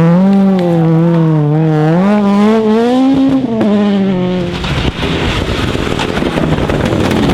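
Rally car engine under load, its pitch rising and falling as the driver works the throttle through a corner. About four and a half seconds in, the clear engine note gives way to a rougher, noisier sound.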